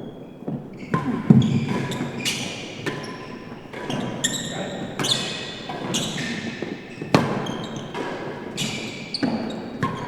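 Real tennis rally: the hard ball struck by racquets and bouncing off the court's walls and floor, a string of sharp knocks at irregular intervals of about half a second to a second, each echoing in the enclosed court.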